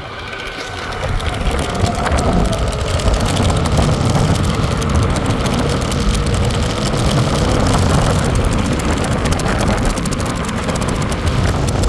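Wind rushing over the microphone and road rumble while riding an electric unicycle at speed, building over the first couple of seconds and then holding steady.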